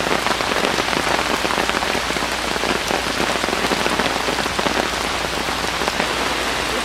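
Heavy hurricane rain falling, a steady dense patter of drops.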